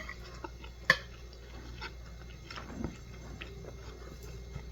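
A person chewing and eating close to the microphone, with scattered small clicks and one sharp click about a second in.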